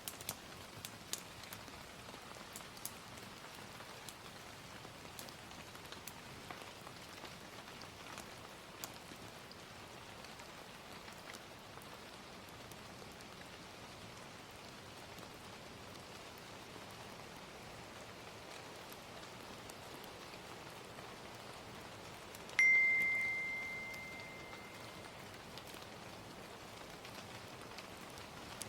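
Steady gentle rain hiss with scattered small fire crackles. About three-quarters of the way through, a timer bell strikes once with a single clear high tone and fades out over a couple of seconds.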